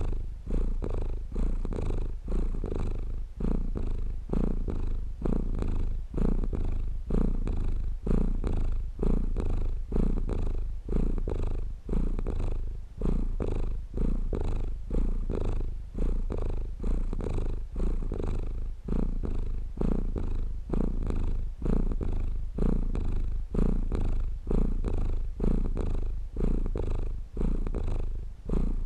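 Domestic cat purring close up, a low steady purr that swells and dips in a regular rhythm with each breath, about once a second.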